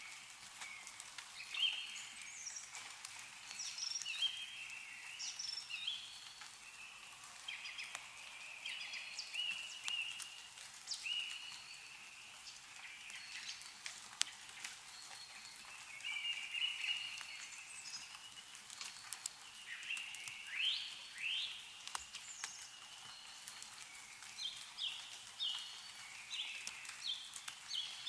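Several small birds chirping and singing, with short notes and quick rising calls overlapping throughout, over scattered sharp ticks of meltwater dripping from snowy trees.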